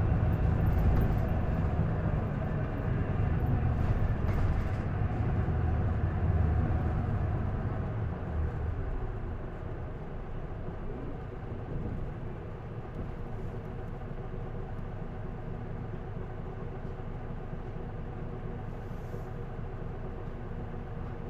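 Isuzu Erga city bus's inline-six turbo diesel heard from inside the cabin, pulling hard at first, then easing off about eight seconds in and running on at a quieter, steady level.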